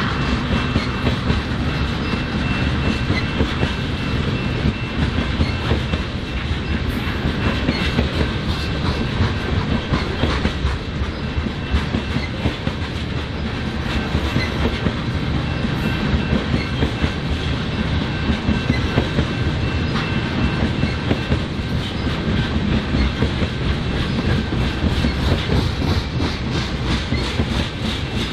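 BNSF freight train cars rolling past, wheels clicking rapidly and steadily over the rail joints over a continuous rumble. A faint, high, steady whine runs under it and fades out about three-quarters of the way through.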